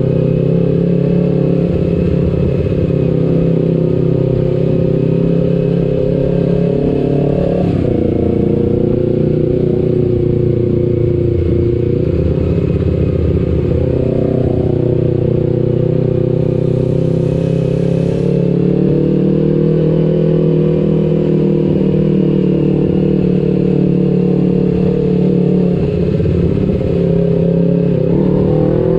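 Kawasaki Ninja 250 FI's parallel-twin engine running through an aftermarket R9 H2 exhaust while riding. The note holds fairly steady with small rises and dips, has a quick change about eight seconds in, and rises near the end.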